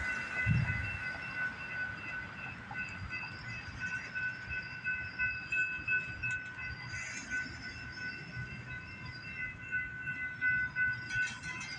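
Stopped train: a low engine rumble under a steady high-pitched tone made of several pitches, with a thump about half a second in.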